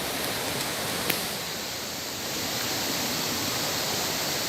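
Steady rushing of flowing water, with one sharp click about a second in.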